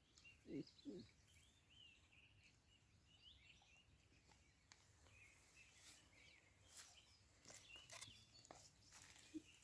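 Near silence with faint, scattered bird chirps, and two soft low sounds about half a second in.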